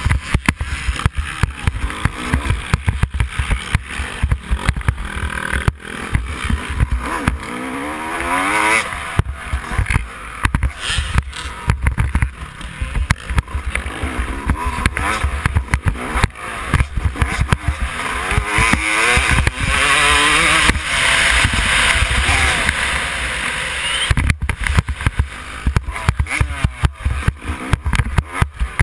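Yamaha YZ250 two-stroke single-cylinder engine revving up and down hard as the bike is ridden round a motocross track, with heavy wind buffeting and knocks on the microphone.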